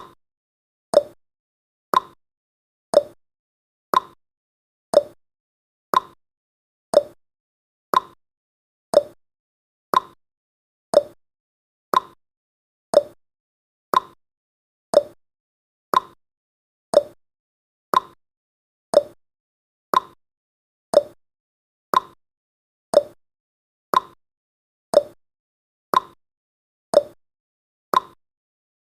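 Countdown timer's ticking sound effect: a short, sharp tick once every second, evenly spaced, each one dying away at once.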